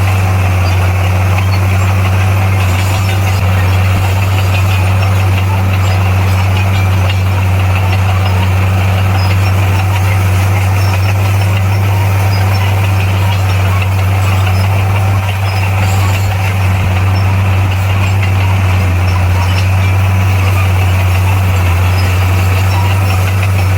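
Bulldozer's diesel engine running steadily, a deep even drone that holds at one pitch without revving up or down.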